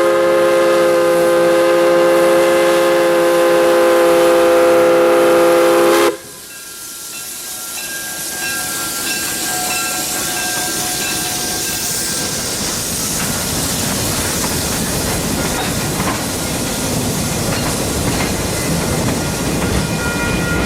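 Steam locomotive whistle blowing one long chord of several tones that cuts off abruptly about six seconds in. Then the noise of the train running, growing gradually louder.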